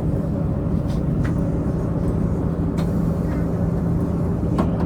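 Diesel multiple unit Tze-Chiang express heard from inside the passenger car: its diesel engine running with a steady hum over the rumble of the wheels on the rails, with a few faint clicks.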